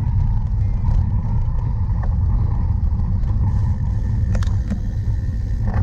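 Steady low rumble of a cyclocross bike being ridden over rough ground, with wind on the microphone and a few sharp clicks and rattles from the bike in the second half.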